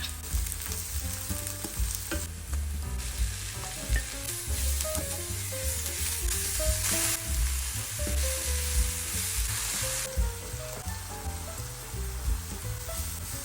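Food sizzling as it fries in a pan.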